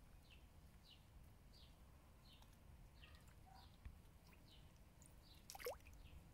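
Faint outdoor ambience: a small bird repeats a short, high, falling chirp about every two-thirds of a second over a low rumble. About five and a half seconds in comes one louder, quickly falling whistle.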